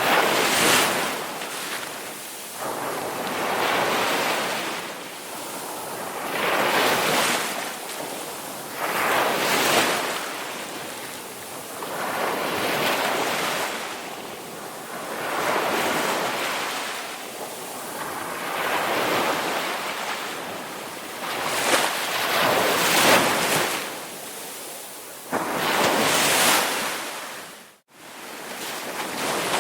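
Ocean surf: waves breaking and washing up the shore in swells that rise and fade every few seconds. Near the end the sound cuts out for a split second and comes back.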